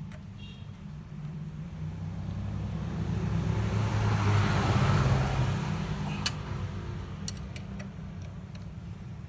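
A motor vehicle passing by, its noise swelling to a peak about halfway through and then fading, over a steady low hum, with a few sharp clicks.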